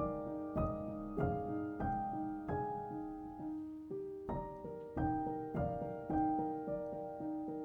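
Soft solo piano background music, slow notes struck about twice a second over a held low note.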